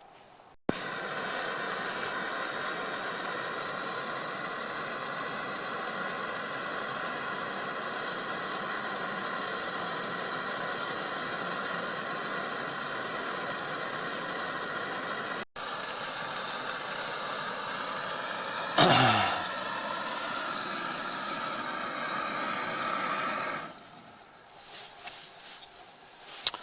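Camping gas stove burner running with a steady hiss while heating water; it stops a few seconds before the end. A single brief clunk sounds partway through.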